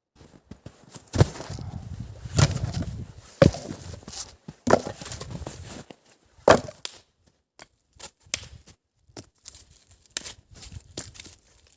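Wood being chopped: five sharp blows about a second apart, each with a dull thud, followed by lighter scattered knocks and clicks from about six seconds in.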